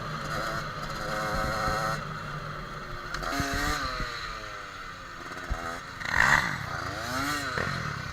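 Yamaha dirt bike engines revving up and down as they ride, pitch climbing and dropping with the throttle, with the loudest rev about six seconds in.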